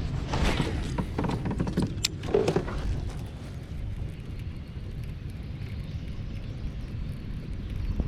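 Steady low rumble of wind buffeting the microphone, with a few clicks and rattles in the first three seconds.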